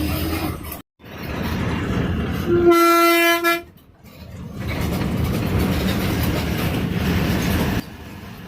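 A bus running along the road, a steady rumble of engine and road noise that cuts out briefly about a second in. About three seconds in the horn gives one steady blast lasting about a second, the loudest sound here.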